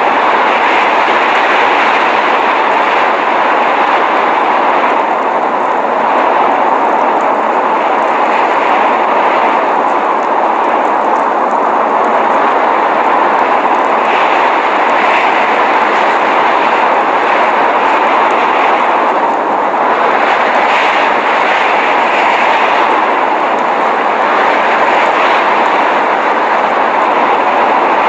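Steady rushing noise of a blizzard, wind and driving snow, holding even with only slight swells.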